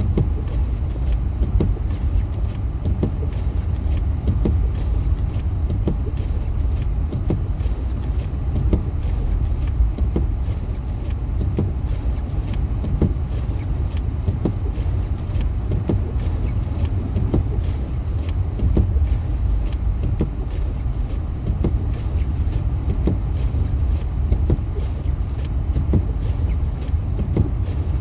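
Steady low road and engine rumble inside a moving vehicle's cabin on a snow-covered highway, with frequent irregular light thumps and knocks.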